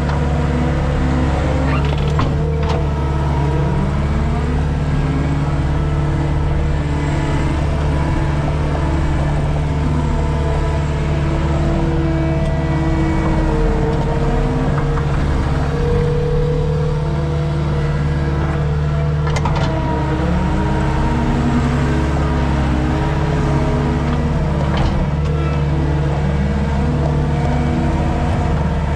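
Skid steer engine running steadily under load while grading, with tones that slide up and down in pitch as it works. A few sharp clanks, about three, stand out.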